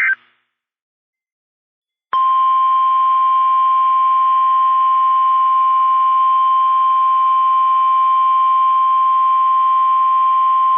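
NOAA Weather Radio warning alarm tone: a single loud, steady 1050 Hz tone that starts about two seconds in, after a short silence, and holds unbroken, signalling an emergency warning broadcast. Right at the start, the last burst of the digital SAME alert header cuts off.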